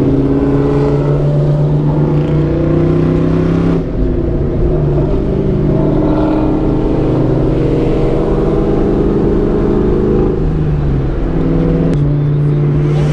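Car engine with a loud aftermarket exhaust running at a steady speed. Its pitch steps a couple of times, about four seconds in and again near the end.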